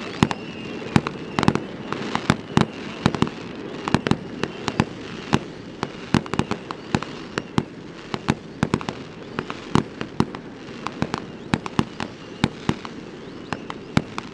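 Fireworks display going off: many sharp bangs in quick, irregular succession, often several a second, over a constant background crackle.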